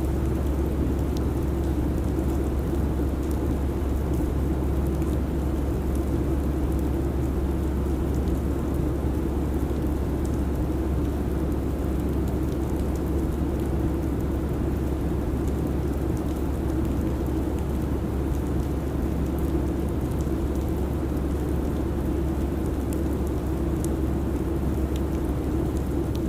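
Steady airliner cabin noise at cruise: an even, unchanging rumble and rush of engine and airflow noise, with a few faint ticks.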